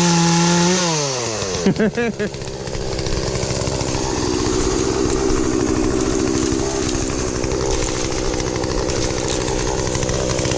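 Two-stroke chainsaw engine held at high revs, then the throttle is let off about a second in and the revs fall away. After a brief sputter it settles into a steady idle.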